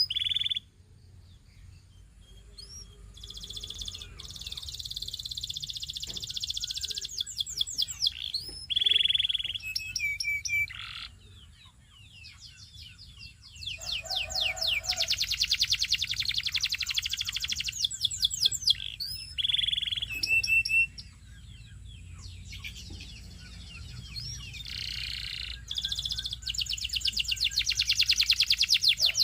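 Belgian singing canary singing in phrases of fast rolling trills, mostly high-pitched with a few deeper rolled phrases, broken by short pauses.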